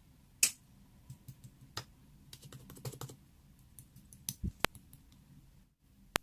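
A dozen or so faint, irregularly spaced clicks and taps, like typing or tapping on a device, the loudest about half a second in.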